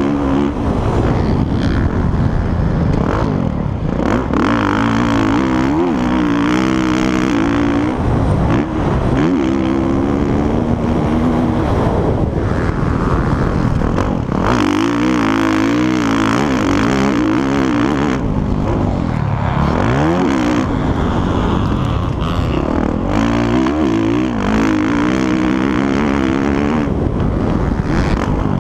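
Motocross motorcycles running on a track, engines revving up and falling back over and over as the riders shift and throttle, with more than one bike heard at once.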